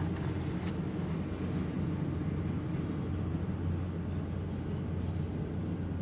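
Freight train rolling slowly through a level crossing, a steady low rumble of steel wheels on rail, heard through a car's cabin, with a few sharp clicks in the first two seconds.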